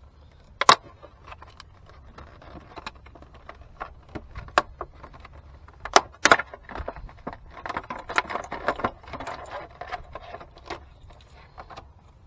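Hands working on car parts and wiring: a few sharp clicks and knocks, then a dense stretch of small rattling and rustling about eight seconds in.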